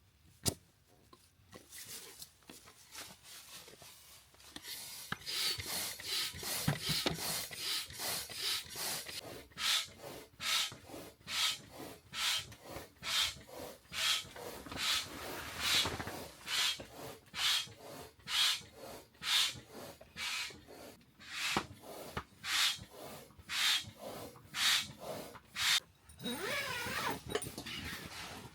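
Rhythmic rasping strokes, about two a second, starting about five seconds in and stopping shortly before the end.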